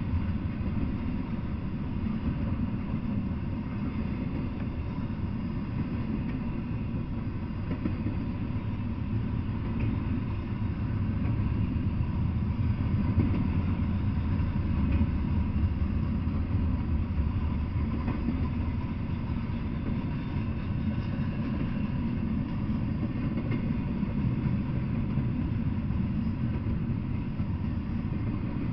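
Double-stack intermodal freight train rolling past: a steady low rumble of wheels on rail, a little louder about halfway through.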